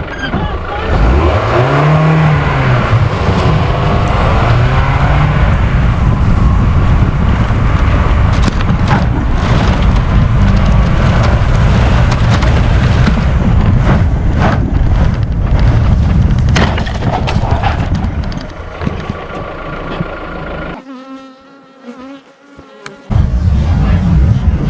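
Swarm of honeybees buzzing close around the microphone, stirred up after their hive was knocked over. The buzz rises and falls in pitch as bees fly past near the start, and it drops away briefly near the end.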